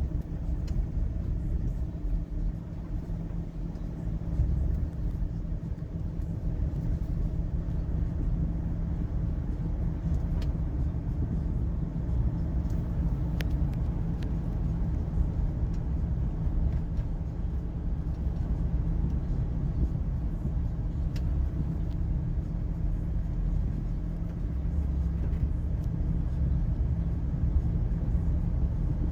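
Steady low rumble of a car driving, heard from inside the taxi's cabin: engine and road noise with no sharp events.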